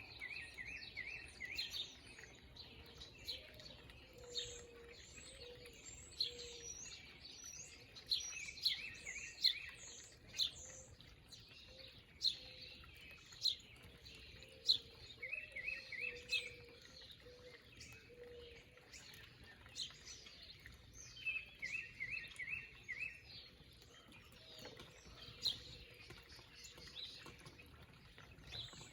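Several backyard birds calling and chirping, with many short sharp high calls and a brief trilled phrase that repeats about every six or seven seconds. A faint low call comes in now and then under the chirping.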